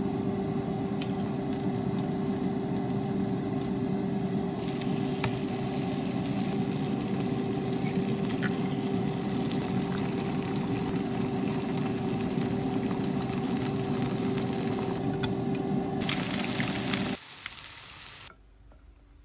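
An egg frying with cheddar and chilli crisp in a pan: a steady sizzle over a constant hum. The sizzle turns brighter about four seconds in and stops abruptly near the end.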